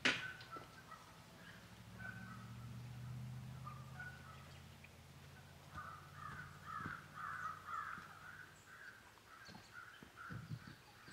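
Faint wild birds calling: a quick run of short repeated calls from about six to ten seconds in. Under them is a low steady hum, and there is a sharp knock right at the start.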